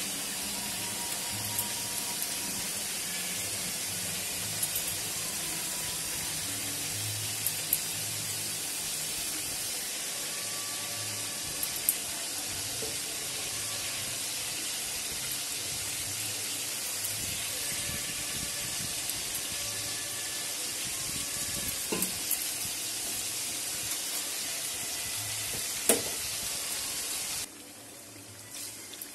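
Oil sizzling steadily in a wok as ginger paste fries with whole potatoes, with a few sharp clicks of a metal spatula against the pan. The sizzle drops abruptly to a lower level near the end.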